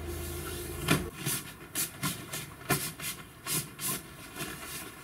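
Stiff plastic material being handled, rustling and crackling in about a dozen sharp, irregular bursts, the first the loudest. A low hum cuts off about a second in.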